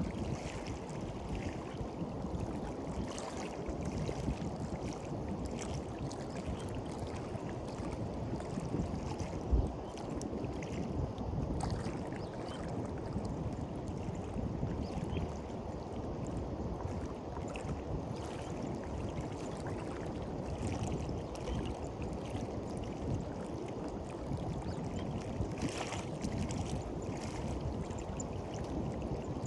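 Sea waves washing onto a beach: a steady low rush of water with small splashes now and then, one a little louder near the end.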